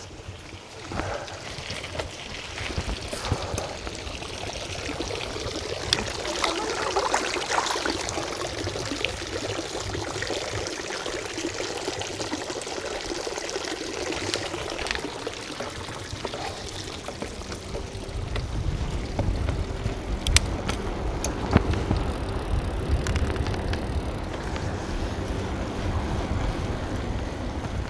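Riding noise from a moving bicycle: a steady rush of wind and tyre noise, turning to a heavier low rumble with scattered clicks and rattles in the second half.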